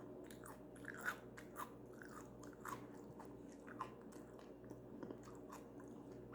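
Close-miked chewing of a raw carrot dipped in hummus: faint, irregular crunches, a couple a second.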